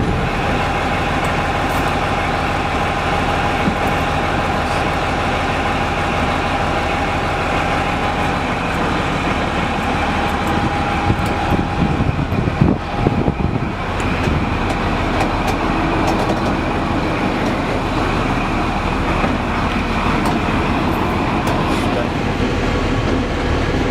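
Prototype HST power car 41001's diesel engine running steadily, with a steady high whine through roughly the first half and a brief rougher patch around the middle.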